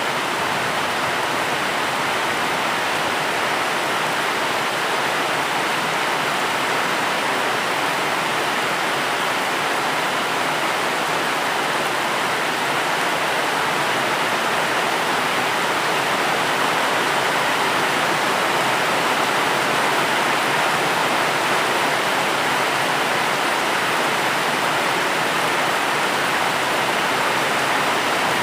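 Steady rain, an even hiss that does not change, with no single drops or thunder standing out.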